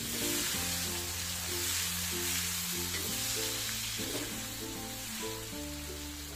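Ground spice paste (shallot, garlic, chilli, ginger, turmeric and candlenut) sizzling steadily in hot oil in an aluminium wok and stirred with a metal spatula, as it is sautéed until cooked. Background music of held chords plays underneath.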